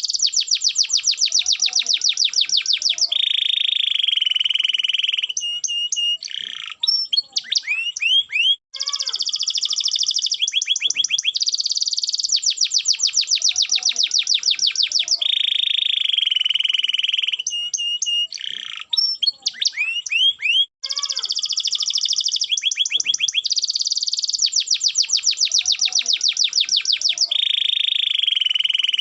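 Domestic canary singing a loud song of fast trills, a held buzzy note and quick rising whistled slides. The same sequence of phrases repeats about every twelve seconds, as in a looped recording.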